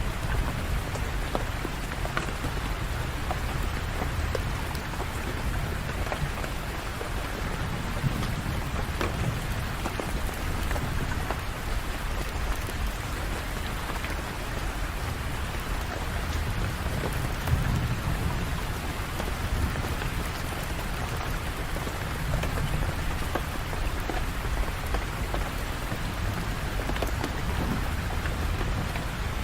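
Steady rain falling and pattering on surfaces, with a low rumble that swells and fades now and then.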